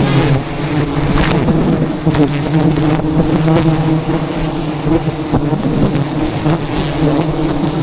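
A swarm of bees buzzing around a wild nest high in a tree, a dense, steady drone.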